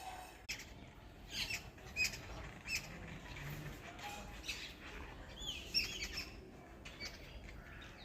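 Birds calling: a string of short, high chirps, several with a quick rise and fall, coming every second or so, with a cluster of them about five and a half to six seconds in.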